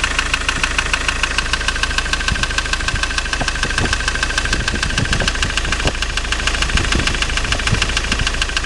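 Ford Transit 2.4 115 hp diesel engine idling with a rapid, even knock whose source is unknown; the owner suspects it comes from somewhere around the EGR valve or the gearbox.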